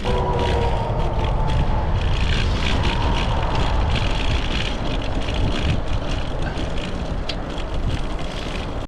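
Steady riding noise from a moving bicycle: wind rumbling on the microphone over the hum of tyres on pavement. A faint, slowly falling whine runs through the first couple of seconds.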